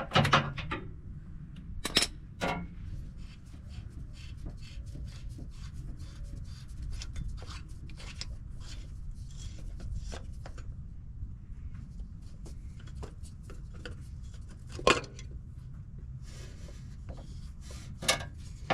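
Oil filter housing cap being unscrewed by hand from a truck engine: a long run of small clicks and rubbing from the threads and parts, with a few sharp knocks about two seconds in, about fifteen seconds in and near the end.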